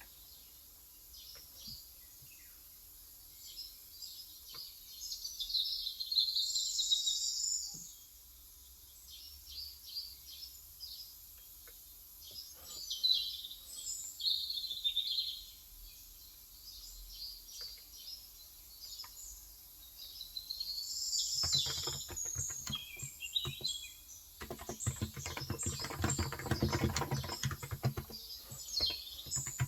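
Birds chirping on and off throughout, with a few scattered keystrokes on a Cox Endeavour electro-capacitive (35 g) tenkeyless keyboard. Steady, dense typing starts about two-thirds of the way in.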